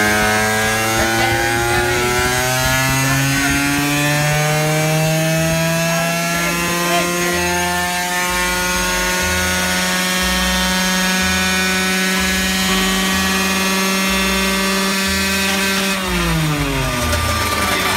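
Malaguti RST's two-stroke single, bored to 70 cc with a Malossi kit and breathing through a Leovince exhaust, held at full throttle on a dyno: the revs climb slowly and steadily for about sixteen seconds, then drop away fast as the throttle is shut near the end.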